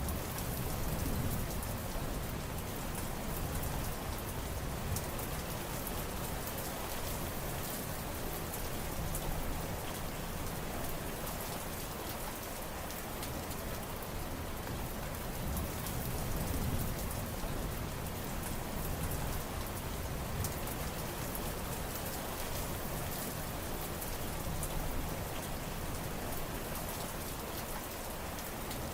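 Steady rain falling on surfaces, a dense patter of drops with a low rumble that swells and fades a little now and then.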